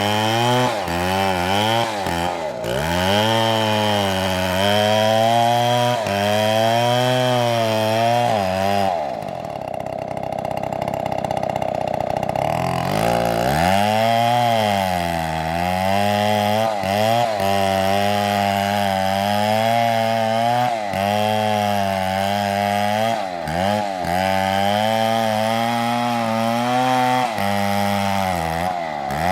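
STIHL chainsaw cutting through an oak log, its engine pitch dipping and recovering again and again as the chain loads and unloads in the wood. For a few seconds in the middle the tone turns steadier and duller.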